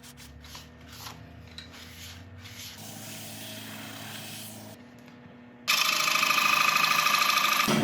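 Wood lathe running with a low hum, then near the end a loud, rough rubbing starts abruptly as an abrasive is pressed against the spinning chestnut burl.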